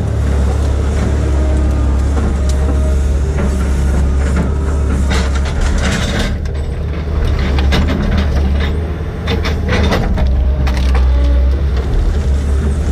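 Heavy diesel engine of a logging machine running steadily under load, with bursts of sharp cracking and clatter about five seconds in and again near ten seconds.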